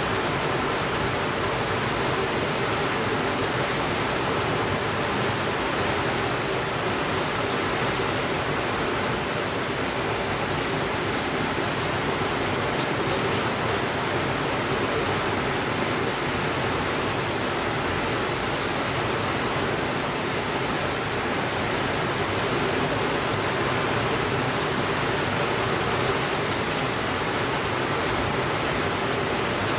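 Steady rainfall, an even unbroken hiss with a few faint ticks now and then.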